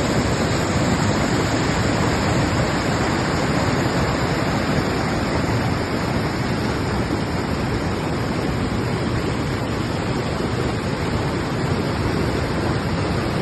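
River water rushing: a steady, unbroken noise of fast-flowing water.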